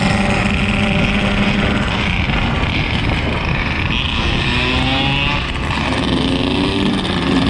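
Motorcycle engine running on the move, its pitch rising and falling with the throttle, over a steady rush of wind and road noise.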